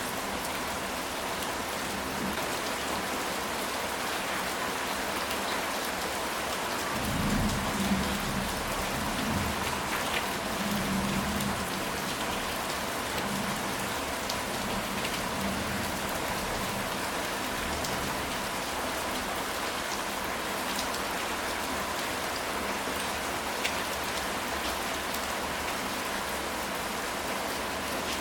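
Steady rain falling on a ceramic tile roof. A low rumble of thunder swells about a quarter of the way in and fades over the next few seconds.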